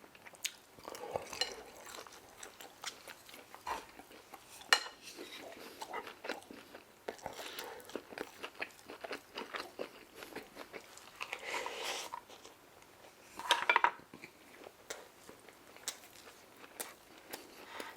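Close-miked eating: crunching and chewing of crispy deep-fried General Tso chicken, with many short clicks and clinks of cutlery against the food container. The louder bursts come about eleven and thirteen and a half seconds in.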